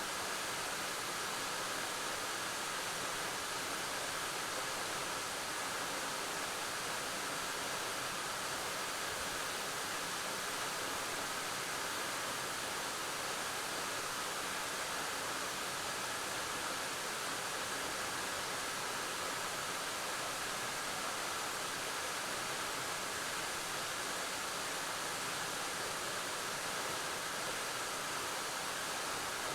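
Waterfall pouring steadily, a constant even rush of falling water with no change.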